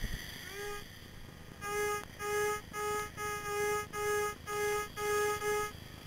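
Metal detector's audio tone sounding off a buried target: a low, reedy beep repeated about nine times, roughly two a second, as the search coil is swept back and forth over it. A brief rising tone comes first, about half a second in.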